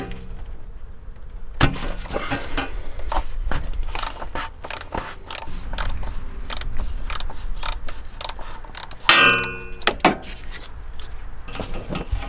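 Hand tools and metal parts clicking, knocking and clattering in repeated short hits, with a loud ringing metallic clang about nine seconds in, all over a steady low hum.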